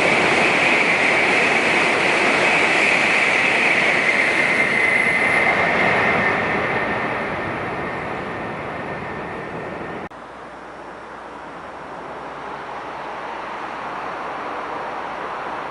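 Hokuriku Shinkansen train passing through the station non-stop at 260 km/h: a loud rush of rail and air noise with a high whine that slides slightly down in pitch. It fades from about six seconds in as the train draws away, then drops suddenly about ten seconds in, leaving a quieter steady hiss.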